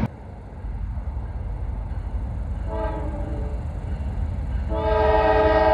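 Diesel freight locomotive air horn sounding a chord: a short blast about three seconds in, then a long blast near the end, over the low rumble of the approaching train.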